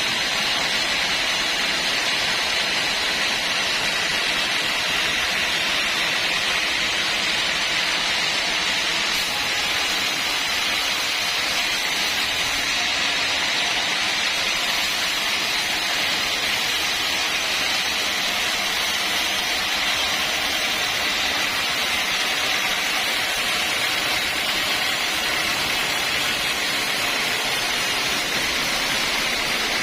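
Sawmill saw running steadily through a large log: an even, high-pitched hiss with a faint whine, unchanging throughout.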